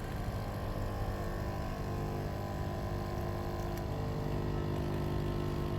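Costar 2-in-1 capsule coffee machine's pump running with a steady hum while it brews coffee into a glass.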